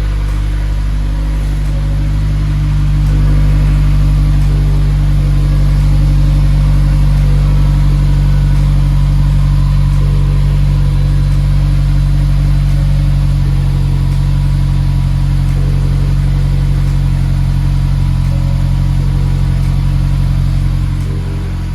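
Honda S2000's four-cylinder engine running steadily through its new exhaust, a deep even drone with no revving. It grows a little louder about three seconds in and eases off near the end.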